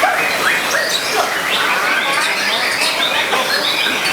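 Many caged songbirds chirping and singing together in quick, overlapping phrases of short sweeping notes, over a steady background of crowd noise.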